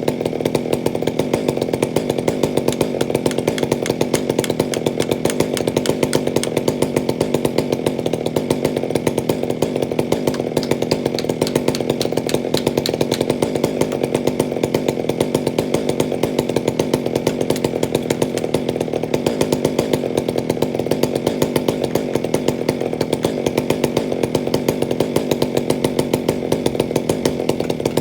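A chainsaw running steadily at a constant load for the whole stretch, with a regular pulsing in its sound.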